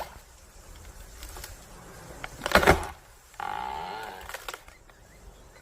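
Wood cracking and branches snapping in a short burst about two and a half seconds in, as an elephant pushes against a tree to topple it. A brief pitched sound of about a second follows.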